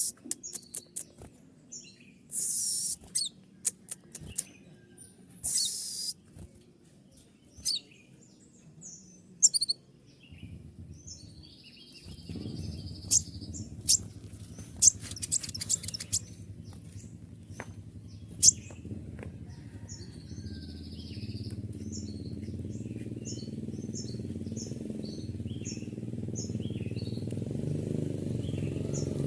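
A sunbird (kolibri ninja) calling in rapid, sharp, high-pitched chirps and short trills: the bursts of 'shooting' notes prized for training songbirds. About halfway through, a low engine-like rumble sets in and grows steadily louder under the calls.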